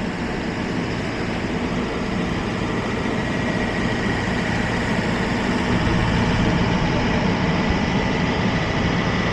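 Steady city street noise dominated by an idling heavy engine's low hum, with a thin steady whine above it; it grows a little louder about six seconds in.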